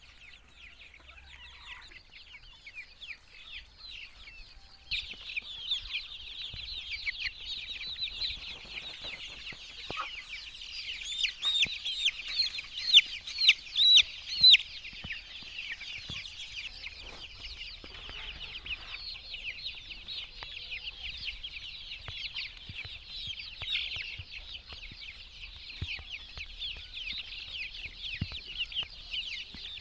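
A flock of poultry calling continuously, many high, short chirping calls overlapping one another; it grows louder about five seconds in, with a run of louder individual calls around the middle.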